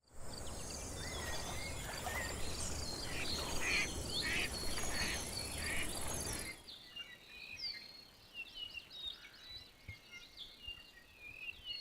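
Chorus of Hawaiian forest birds, many short chirps, whistles and sweeping calls overlapping. For the first six and a half seconds they sound over a loud rushing noise, which then cuts away, leaving the birdsong clear over a quiet background.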